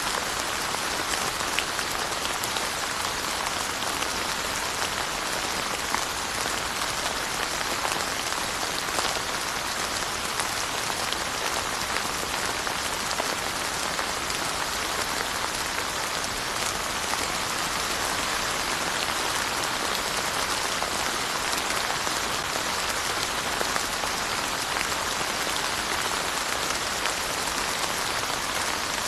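Steady rain falling: an even hiss dotted with scattered sharp ticks of individual drops.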